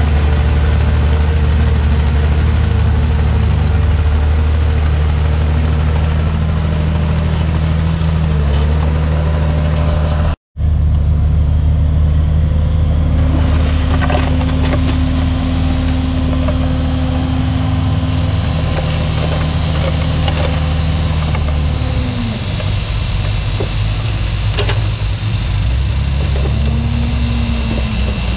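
Komatsu D51PX bulldozer's diesel engine running steadily, its pitch dipping and recovering a few times and settling lower about two thirds of the way through. The sound cuts out completely for an instant about ten seconds in.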